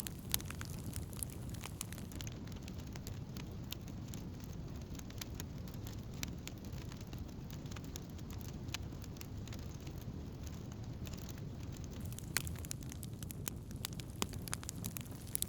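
Wood campfire crackling, with scattered sharp pops over a steady low rumble; the pops come thicker near the end.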